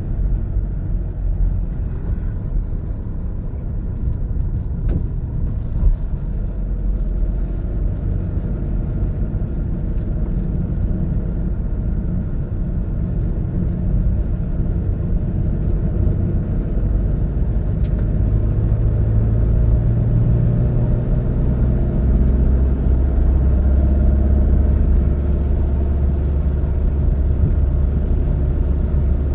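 A car's engine and tyre rumble on a mountain road during a drive, low and steady. About two-thirds through, the engine note rises a little and then settles lower.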